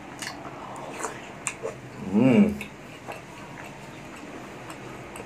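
Close-miked mukbang eating: a man chewing spicy balut with short wet mouth clicks and smacks. About two seconds in, a loud hum that rises and then falls in pitch.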